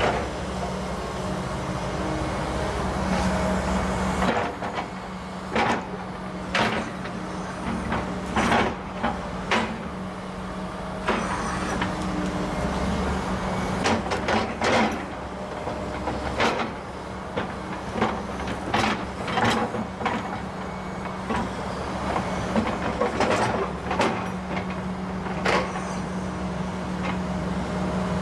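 Volvo ECR145EL excavator's diesel engine running steadily under work, with frequent sharp knocks and snaps scattered through, some singly and some in quick clusters.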